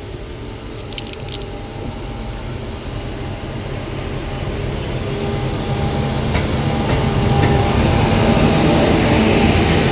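Train running, its rumble and steady hum growing louder throughout, with a few brief clicks about a second in.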